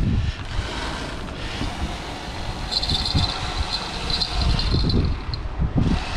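Wind buffeting the microphone with a low, gusty rumble. About three seconds in, a high-pitched wavering sound comes in and lasts roughly two seconds.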